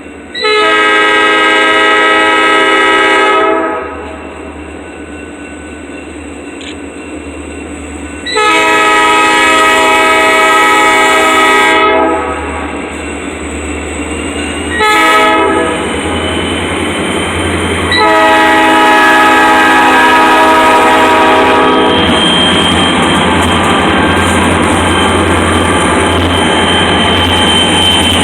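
Diesel freight locomotive's air horn sounding the grade-crossing signal: two long blasts, one short, then a long one. After that, the train passes close by with a steady rumble and the clatter of wheels on rail.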